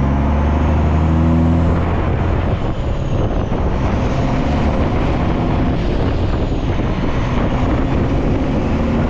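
Diesel engine of heavy construction equipment running steadily. A clear, even engine note for the first two seconds gives way to a rougher, noisier sound.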